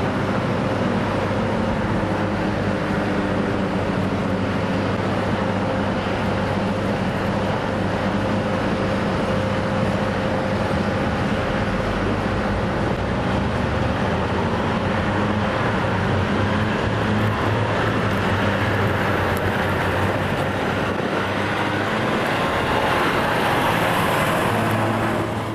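Atlas Copco Minetruck articulated underground haul truck, its diesel engine running steadily with a constant whine over a deep hum.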